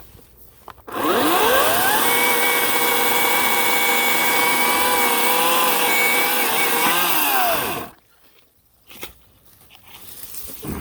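Ryobi 18-inch electric chainsaw's motor spinning up about a second in, running steadily at a high whine for several seconds, then winding down to a stop.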